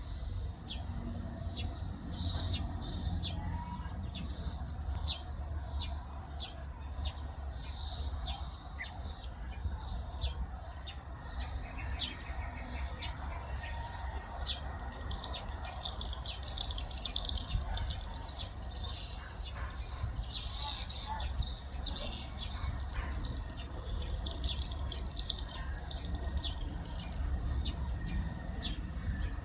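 Many small birds chirping over and over in a tree full of nests, against a continuous high-pitched insect trill. A low rumble runs underneath.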